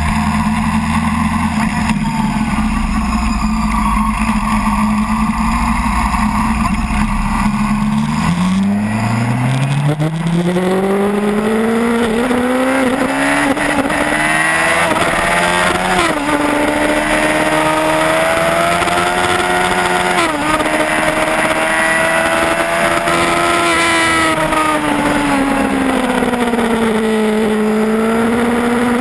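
Yamaha R1's inline-four engine heard from the bike's onboard camera, with wind noise over the microphone. The engine note is steady at first, then climbs from about eight seconds in as the bike accelerates, holds high with two brief hitches, and drops back before lifting slightly near the end.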